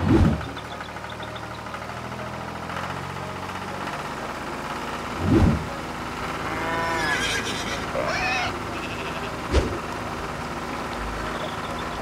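Tractor engine sound effect running steadily, with animal calls in the middle. Two short low whooshes come at the start and about five seconds in, and a sharp click comes near the end.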